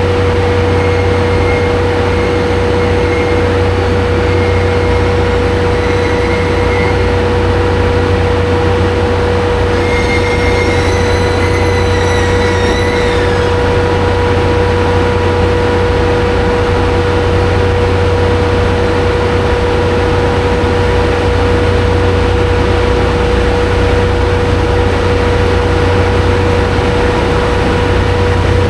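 Diesel engine of a GV-E197 diesel-electric railcar running steadily, a low drone with a constant hum over it. From about ten to thirteen seconds in, a high wavering tone rises over it and fades.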